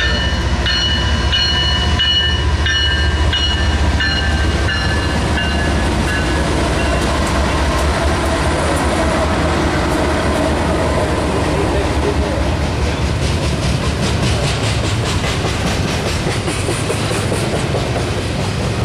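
Double-stack intermodal freight train rolling past with a steady low rumble of wheels on rail. High tones sound over it for the first several seconds and then fade out, and about halfway through a fast run of wheel clatter over rail joints comes in for a few seconds.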